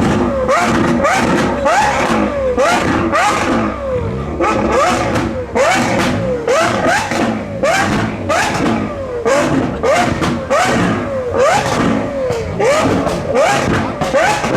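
Lamborghini Aventador SVJ's V12 with a Deutsch Tech DTX aftermarket exhaust being blipped over and over, about one and a half revs a second. Each rev rises sharply and drops back with crackles and pops from the exhaust on the overrun.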